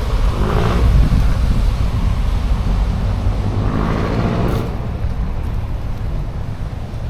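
Road traffic passing close by on a wet street: two motor vehicles swell past, about a second in and again around four seconds in, over a steady low rumble from riding the bike.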